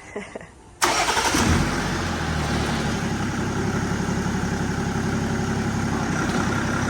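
A BMW M57 straight-six diesel, transplanted into a Land Rover Defender 110, fires up suddenly about a second in. It settles within half a second into a steady idle.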